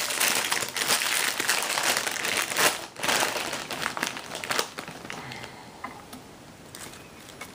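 Plastic bag of pre-cut lettuce crinkling as it is opened and handled: dense, irregular crackling for about five seconds, then thinning to a few faint rustles.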